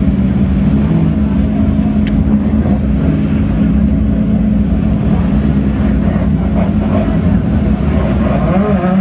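Car engine running steadily at high revs, a loud drone whose pitch rises near the end.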